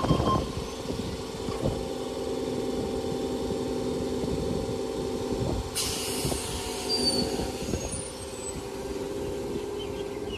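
Electric train standing at a station with a steady mechanical hum, and a sharp hiss of released air about six seconds in.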